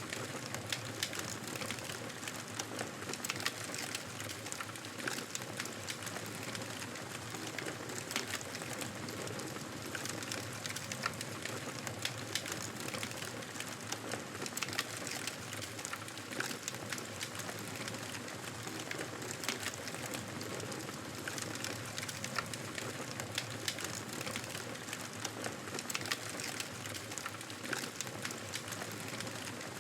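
Fireplace fire crackling: a steady hiss of flames with frequent small pops and snaps scattered throughout.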